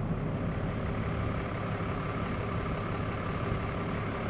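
Tow truck engine idling steadily.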